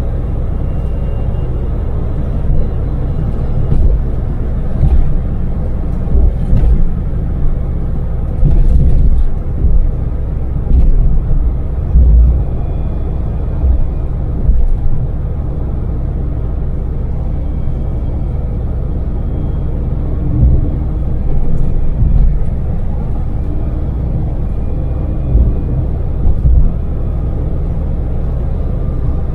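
Daewoo Damas kei minivan's small three-cylinder LPG engine and road noise while cruising on an expressway: a steady low rumble with brief louder low surges every second or two.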